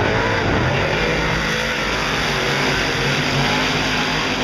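Big-block V8 dirt modified race cars running together in a heat race, their engines making a steady loud drone of overlapping engine noise.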